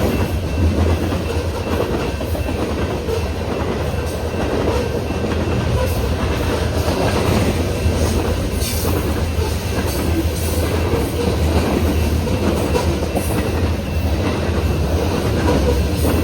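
Train running along the rails: a steady, loud rumble of the cars with occasional clicks from the wheels.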